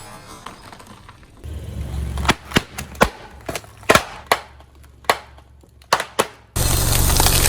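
A car tyre rolling slowly over brittle items, which crack and pop about a dozen times in quick, uneven succession over a low rumble. Near the end a loud steady rushing noise cuts in suddenly.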